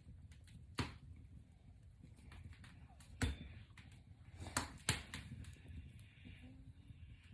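Box braids being taken down by hand: a soft rustle of braided hair with four sharp clicks, two of them close together.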